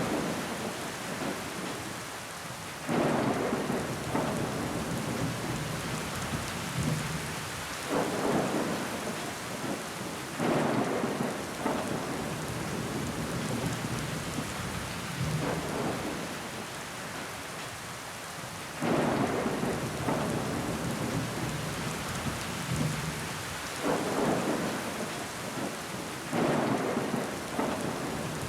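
Steady rain pattering on a window pane, with water trickling down the glass. Every few seconds there is a louder swell that starts suddenly and fades within a second or two.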